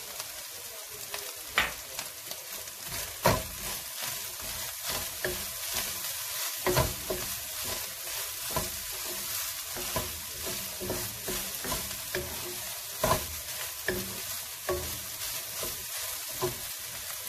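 Minced meat and onions sizzling as they fry in a nonstick wok, stirred with a wooden spatula that scrapes and knocks against the pan at irregular moments.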